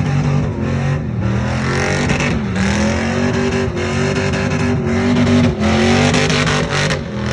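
Chevy truck's V8 engine held at high revs during a burnout, the pitch rising and dipping with several brief drops, over the hiss of spinning tyres.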